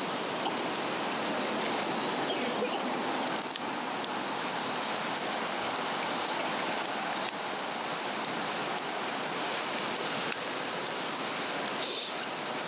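Steady rushing of a brook flowing, with a few faint crackles from a burning wood fire.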